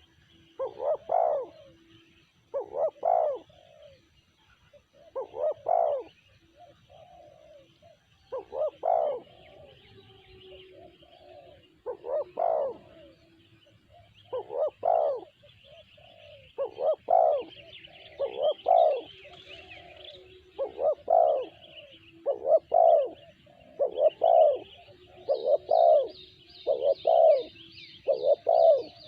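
Spotted dove (tekukur) cooing in repeated phrases, spaced a few seconds apart at first and coming about once a second in the second half. Other small birds chirp faintly behind it, and there is a quick run of high ticks near the end.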